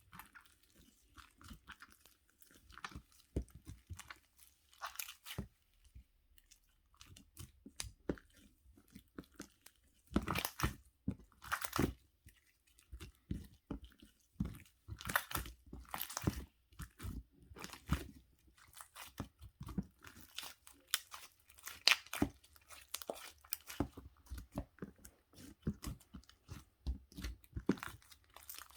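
Chewing crunchy food close up: irregular crisp crunches and crackles, louder in a few clusters.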